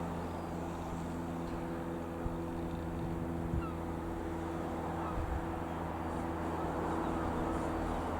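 Single piston engine of a Piper PA-28-181 Cherokee Archer light aircraft (a four-cylinder Lycoming O-360) running steadily, a drone that holds the same pitch throughout.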